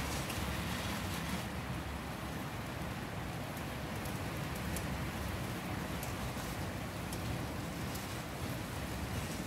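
Strong wind blowing through trees: a steady rushing noise with a low rumble underneath.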